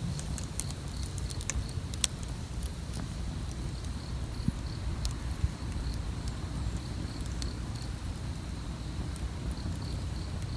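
Wood campfire crackling, with scattered sharp pops over a steady low rumble. A high insect chirp pulses evenly, about twice a second.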